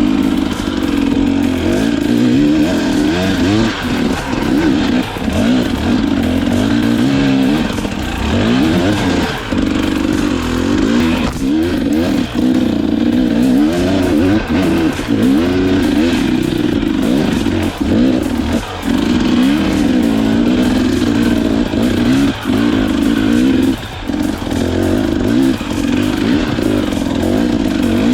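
KTM EXC 250 enduro motorcycle engine under way off-road, its pitch rising and falling again and again as the throttle is opened and closed through gear changes.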